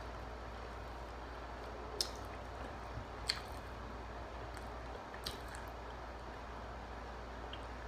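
A person chewing fried chicken, with three sharp wet clicks about two, three and five seconds in, over a steady low hum.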